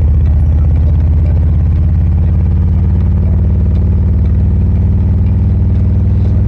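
Harley-Davidson Road Glide Limited's V-twin engine running steadily and loudly, a low even rumble with no change in speed.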